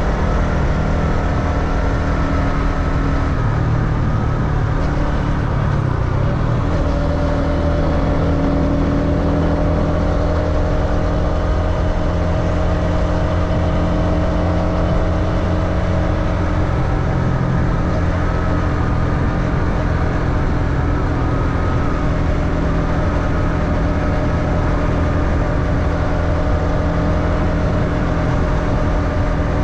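Motorbike engine running steadily while riding, heard from on the bike, with its pitch shifting about six seconds in.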